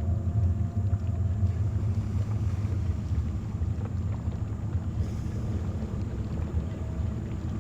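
Wind buffeting the microphone outdoors: a low, uneven rumble.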